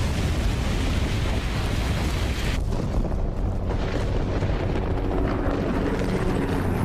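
A loud, steady, deep rumbling noise with a hiss on top, and faint music underneath.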